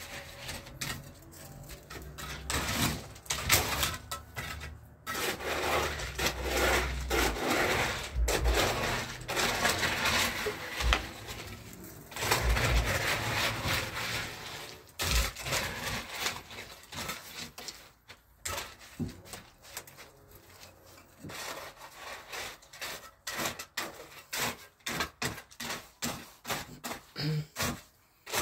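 Hand tools scraping and rubbing on mortar during masonry work, in long rasping strokes, then a run of short, uneven knocks in the second half.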